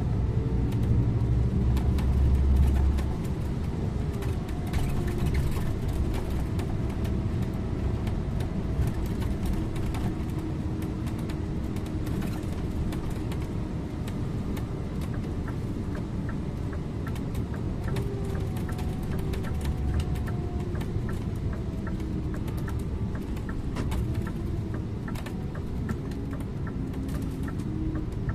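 Scania InterLink bus driving along, its engine and road noise a steady low rumble, louder for about the first three seconds. A regular light ticking joins in about halfway through.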